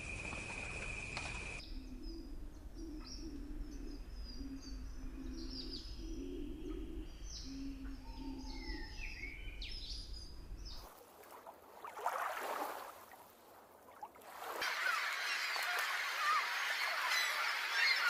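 A steady high trill fades out in the first two seconds. Birds then chirp for several seconds with short calls that rise and fall in pitch. After a quieter stretch, a dense chorus of a large flock of birds calling starts about fifteen seconds in.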